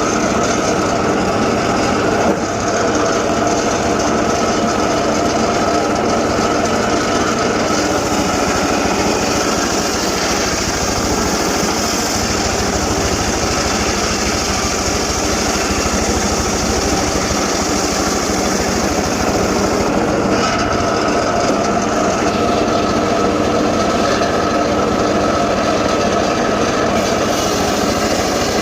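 Engine-driven saw running steadily at high speed, with a brighter hissing edge from about 8 to 20 seconds in.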